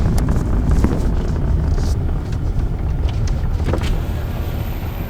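Truck driving, a steady low road rumble with scattered knocks and rattles.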